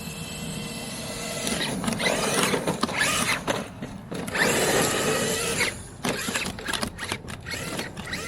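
Traxxas X-Maxx 8S RC monster truck's brushless electric motor and drivetrain whining under throttle, rising and falling in pitch in long loud runs. From about six seconds in it turns choppy, with short bursts of throttle.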